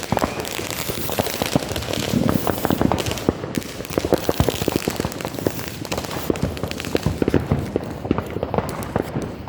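Fireworks crackling: many sharp pops in quick, irregular succession.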